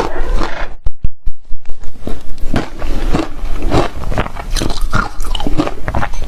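Reshaved ice being bitten and chewed close to the microphone: loud, irregular crunching. There is a short pause with only a few crunches about a second in.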